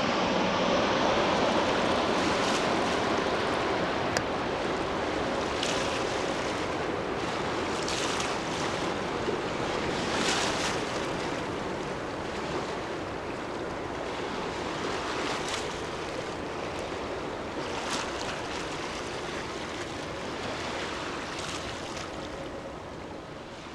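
Distant roar of a Bombardier Global 5000 business jet's twin Rolls-Royce BR710 turbofans slowly fading away after it has passed overhead to land. Small waves wash on the shore every two to three seconds.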